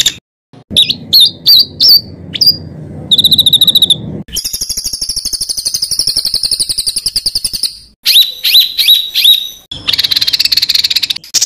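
Songbird song in spliced segments that start and stop abruptly. It runs through sharp whistled notes, a short fast trill, a long harsh rattling trill and a run of sharp downslurred notes: the harsh 'tembakan kasar' phrases used to tutor cage songbirds.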